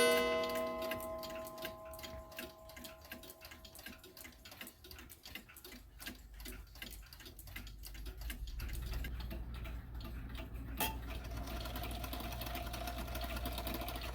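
Seth Thomas beehive mantel clock: the last strike on its chime fades away at the start, then the movement ticks steadily, with one louder click about eleven seconds in. A low hum builds underneath in the second half.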